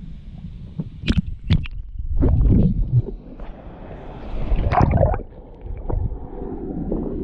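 Water sloshing and gurgling close to the microphone in irregular surges, with a couple of sharp knocks about a second in.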